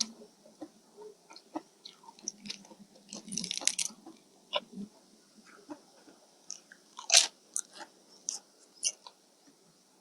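A person eating close to the microphone, chewing, biting and smacking in irregular wet clicks. There is a dense flurry of them just past a third of the way in, and the loudest bite comes a little past two-thirds in.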